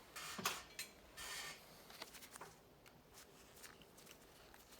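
Light scraping and small clicks of a metal coupler being worked onto a circulator pump's motor shaft, with its set screw being turned in. Two short scrapes come in the first second and a half, then faint ticks.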